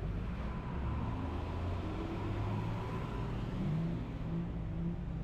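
City bus engine running with a steady low hum, its pitch shifting a little partway through, under road traffic noise.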